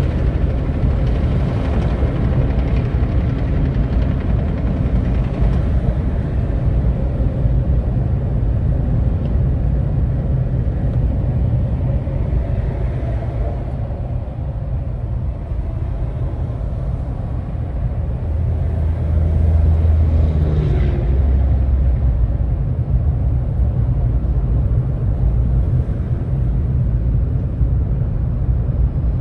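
Steady low rumble of a vehicle driving, with engine and road noise. It swells for a few seconds from about 18 seconds in, with a deep hum around 20 seconds.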